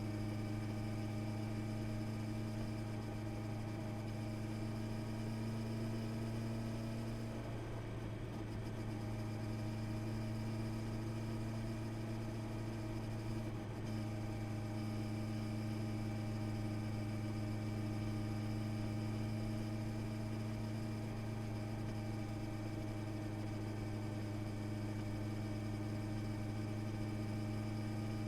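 Honda CB650R's inline-four engine running at steady revs, with a brief slight dip about eight seconds in.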